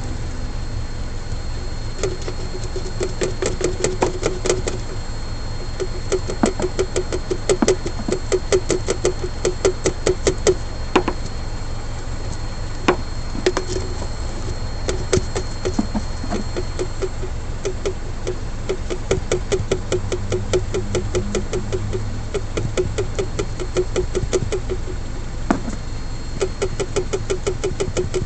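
Hyundai Elantra rear shock absorbers knocking: rapid runs of light knocks and rattles in bursts over a steady low rumble, with a few louder single knocks. The knock comes from the shock absorbers' dust boots and bump stops.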